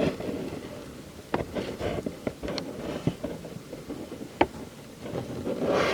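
Handling noise: a few light clicks and taps over a low background rustle, with the sharpest tap about four and a half seconds in.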